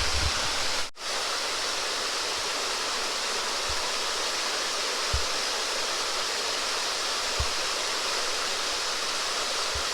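Small waterfall pouring into a pool: a steady rush of falling water, cutting out for an instant about a second in.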